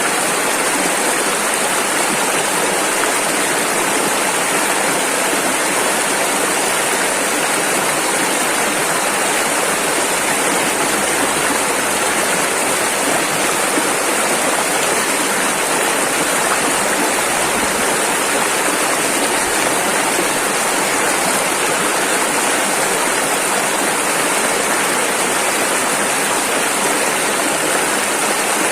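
Rushing river: fast-flowing water running over rocks, a steady, unbroken rushing.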